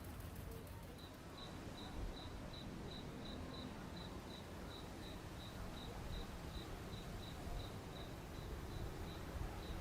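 A cricket chirping steadily, about three short high chirps a second, starting about a second in, over a low background rumble.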